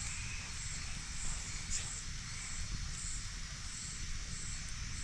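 Night insects chirping in a steady high-pitched rhythm, about two pulses a second, over the low rumble of a campfire with an occasional sharp crackle.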